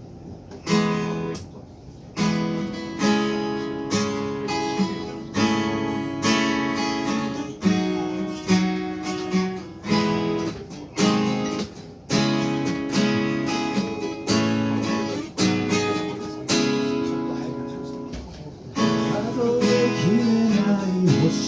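Acoustic guitar playing a song intro, strumming chords with a strong stroke about every second, each chord ringing on between strokes.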